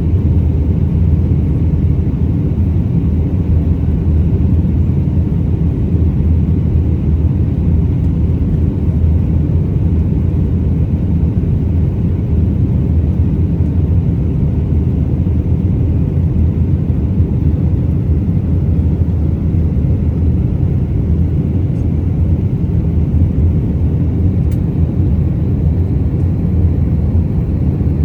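Airbus A319 cabin noise from a window seat: a steady low rumble of its IAE V2500 engines and airflow, holding an even level throughout.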